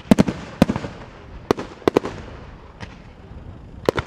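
Fireworks display: a rapid run of sharp bangs from bursting shells, often in quick pairs. A cluster comes in the first second, more follow around two seconds in, and another pair comes near the end.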